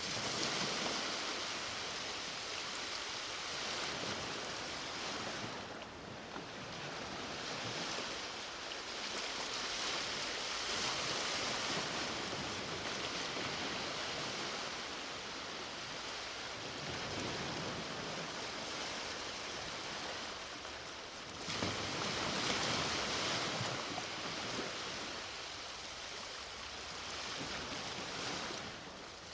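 Ocean waves breaking and washing up the shore, the surf rising and falling in swells, with a louder surge shortly after the midpoint.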